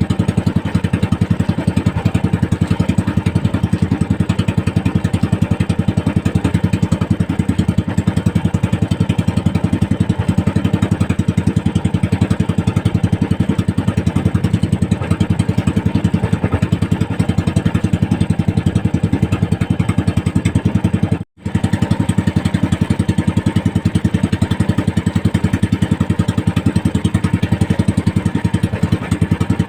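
Small fishing boat's engine running steadily with a fast, even pulse. It drops out for an instant about two-thirds of the way through.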